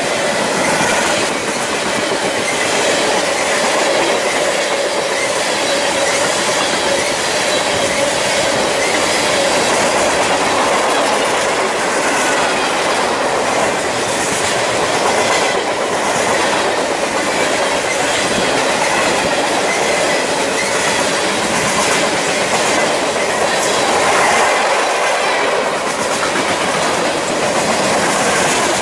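Freight train of open-top hopper cars rolling past close by. Steel wheels run steadily on the rail with a repeating clickety-clack over the rail joints, and a faint thin wheel squeal rides over it.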